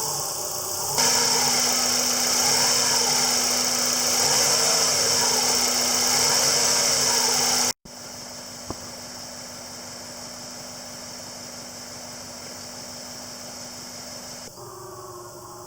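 Subaru EJ207 flat-four engine running steadily at idle, with a new short block fitted in place of one that had piston slap. About eight seconds in the sound cuts off abruptly and resumes much quieter.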